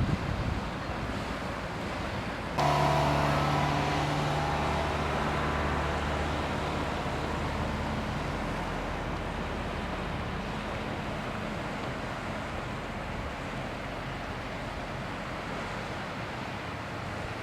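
Wind and outdoor noise with a steady low engine hum that starts abruptly a couple of seconds in and slowly fades away.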